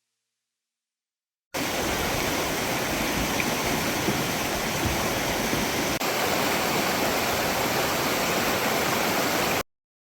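Fast creek water rushing steadily, the creek swollen with snowmelt. It starts abruptly about a second and a half in and cuts off suddenly near the end, with a tiny break around six seconds.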